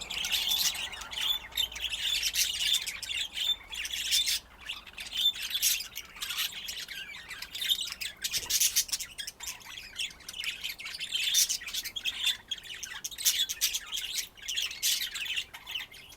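A group of budgerigars chattering, with many overlapping short squawks and chirps.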